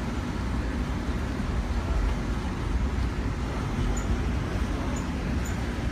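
Steady low rumble of an Amtrak passenger train running, heard from inside the carriage, with a few faint clicks in the second half.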